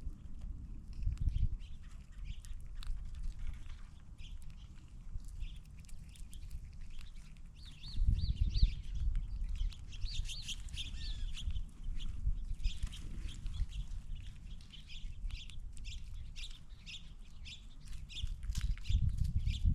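Birds chirping and calling in quick short notes, busiest in the second half, over an intermittent low rumble.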